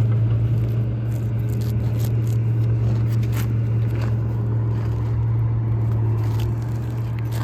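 A steady low mechanical hum at an unchanging pitch, like a running engine, with faint scattered scrapes and crackles of brittle asphalt shingles being handled and pressed down.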